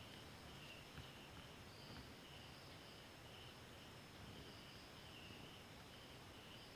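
Near silence, with faint insects chirping steadily in the background in a high, pulsing pattern, and a couple of faint light clicks.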